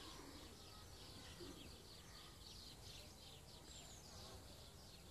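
Near silence, with a small bird's faint, quick, high chirps repeating steadily.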